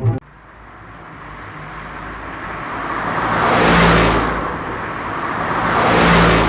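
A vehicle passing by twice: a rushing noise with a low hum beneath swells up and fades, peaking about four seconds in and again about six seconds in.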